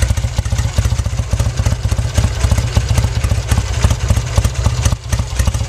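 1966 Triumph Bonneville's 650 cc parallel-twin engine idling steadily, still warming up after a cold start.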